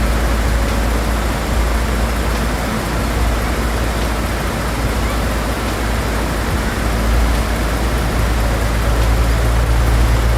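Steady heavy-vehicle rumble with road and traffic noise, a low, even drone with no sharp events.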